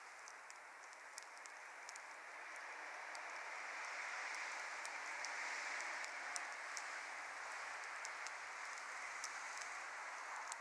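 Wood fire burning in a fire pit: a steady hiss of flame that swells through the middle, with scattered sharp crackles and pops from the burning wood.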